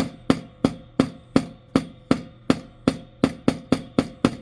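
Hammer tapping a nail into the wood of a birdhouse kit in short, quick strokes, about three to four a second, each a sharp knock that dies away quickly.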